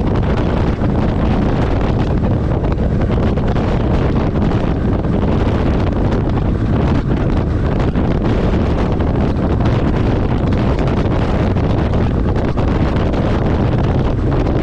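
Steady road and wind noise of a truck on the move, heavy in the low end and with wind buffeting the microphone.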